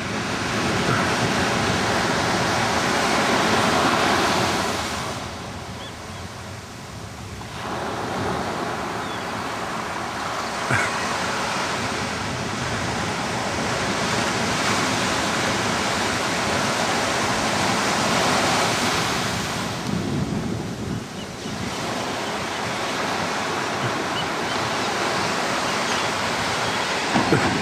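Ocean surf: a steady wash of breaking waves that swells and eases, dropping away briefly about five seconds in and again about twenty seconds in.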